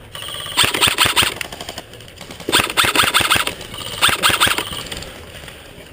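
Airsoft electric rifle firing three rapid full-auto bursts, each about a second long or less.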